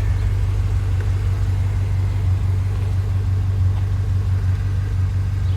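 Chevrolet Camaro SS V8 idling through its Borla aftermarket exhaust, a steady low rumble, still warming up after a cold start.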